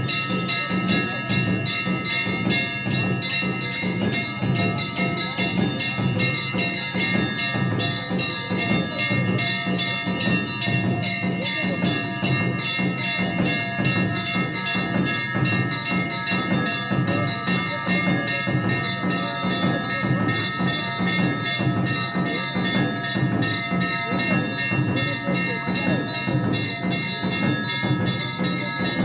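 Temple bells rung rapidly and without a break for the Hindu evening aarti: a dense, steady clangour of overlapping ringing tones.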